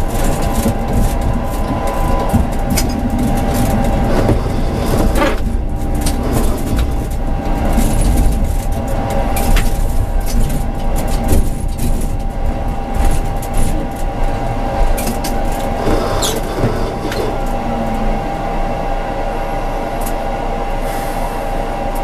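Tram running along the line, heard from the driver's cab: a steady rumble with a constant whine, and scattered knocks and clicks from the wheels and track.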